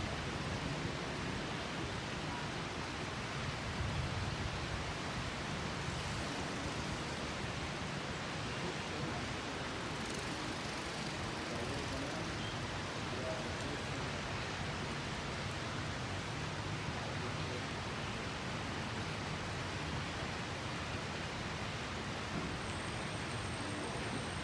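Steady rain making a continuous, even hiss, with a low rumble underneath.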